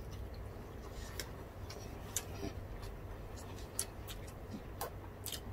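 People chewing food close to the microphone: sparse wet mouth clicks and smacks, about five over the few seconds, over a faint low hum.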